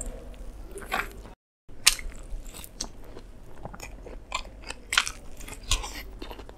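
Close-miked biting and chewing of a sauce-covered beef burger: a string of sharp crunches and wet mouth clicks, cut by a brief dropout to silence about a second and a half in.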